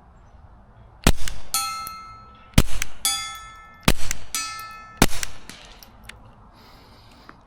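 Four suppressed .22 LR pistol shots from a Taurus TX22 firing subsonic rounds. The first three are each followed about half a second later by the ring of a steel target plate being hit; the last draws no ring, a miss.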